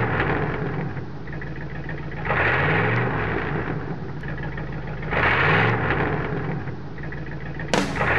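Pontiac 400 big-block V8 of a 1968 Firebird running, with the throttle blipped twice, about three seconds apart, each rev rising and then settling back. There is a sharp noise near the end.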